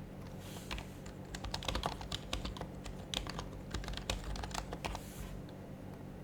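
Typing on an HHKB Professional Hybrid Type-S keyboard, a quick irregular run of soft keystrokes on its silenced Topre keys. It starts about half a second in and lasts about four and a half seconds, over a low steady hum.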